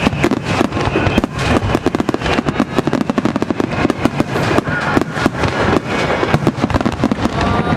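Fireworks display going off in a rapid, dense barrage of bangs and crackles, several a second without a break.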